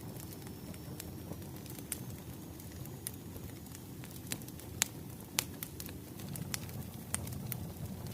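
Wood fire crackling: a steady low rumble of burning logs with scattered sharp pops and snaps, two louder pops about five seconds in.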